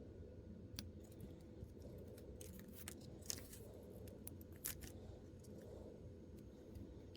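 Faint, sharp clicks and snips of small plastic miniature pieces and their packaging being handled and cut open, a few scattered and a cluster near the middle, over a low steady hum.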